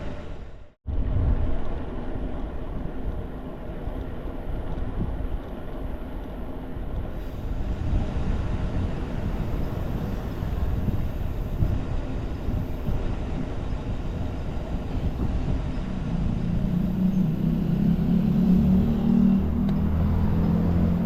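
Steady rumbling road noise, broken by a short gap under a second in, with a motor vehicle's engine hum coming in about three-quarters of the way through.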